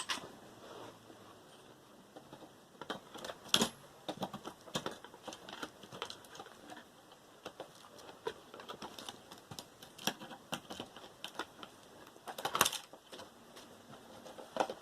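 Irregular clicks and small knocks of hard metal and plastic parts being handled and pried while a computer motherboard is taken apart, with a few sharper knocks near the start, about a third of the way in and near the end.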